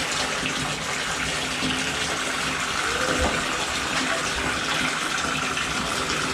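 Steady rush of running water, as from a tap filling a bathtub, with faint children's voices in the background.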